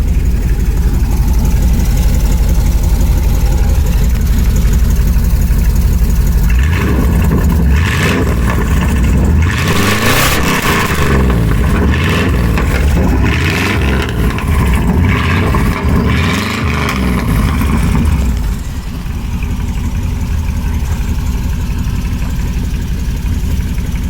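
Chevrolet pickup's engine heard through its new aftermarket exhaust with an over-the-axle dump: idling, then revved several times in quick succession, the pitch rising and falling, before settling back to idle near the end.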